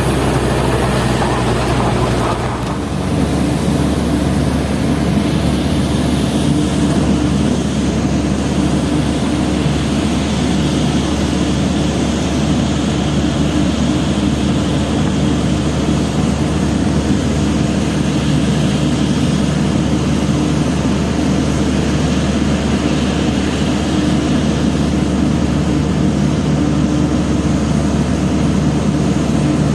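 Hino FL 260 JT truck's six-cylinder diesel engine running under load, heavy with a 33-ton coal payload. The engine note dips and changes about two and a half seconds in, then runs steadily.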